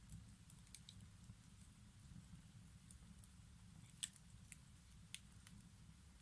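Wood fire in a fireplace crackling faintly over a low steady rumble, with scattered sharp pops; the loudest pop comes about four seconds in.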